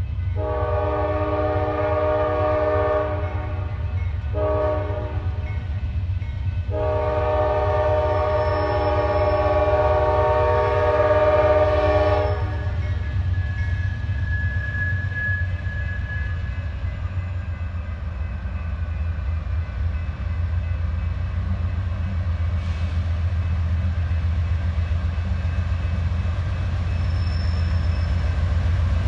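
Diesel locomotive horn sounding a long blast, a short one and another long one, a steady multi-note chord, followed by the locomotive's engine rumbling steadily as the coal train passes.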